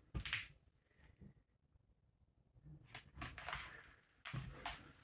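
Faint footsteps scuffing on a floor: one short step at the start, then a run of steps and scrapes from about three seconds in.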